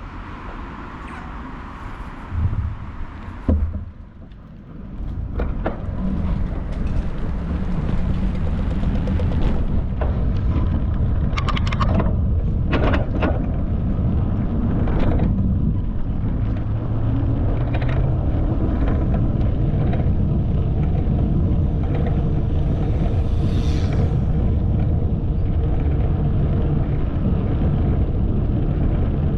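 Steady low rumble of wind and rolling noise from a bicycle riding along a path. It builds about five seconds in, after a quieter stretch with a couple of knocks, and a few short clicks and rattles come partway through.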